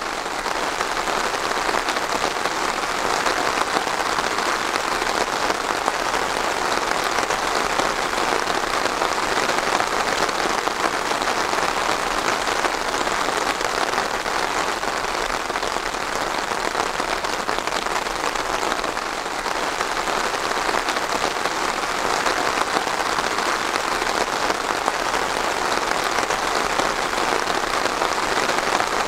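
Steady rain falling: a dense, even patter that holds level with no breaks or lulls.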